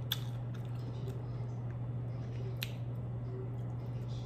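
Close-up wet chewing of sushi, with two sharp mouth clicks about two and a half seconds apart, over a steady low hum.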